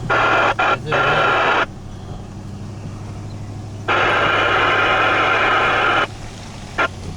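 Chase vehicle's engine humming steadily under loud bursts of rushing noise, each lasting about two seconds and cutting in and out abruptly.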